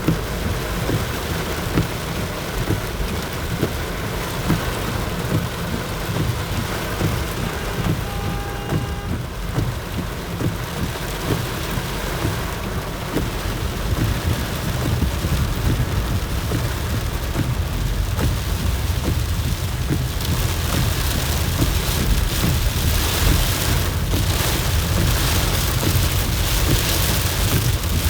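Heavy rain falling in a thunderstorm, with a low rumble underneath and many close drops ticking on a surface. The downpour grows heavier about two-thirds of the way through.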